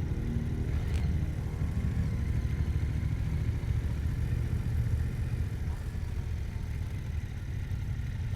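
Yamaha MT-07's 689 cc parallel-twin engine running steadily at low revs, a continuous low rumble, with a brief click about a second in.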